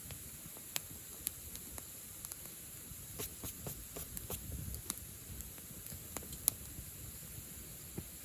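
Wood fire crackling: irregular sharp pops and snaps over a low flutter of flame, thickest in the middle, with one louder snap about six and a half seconds in.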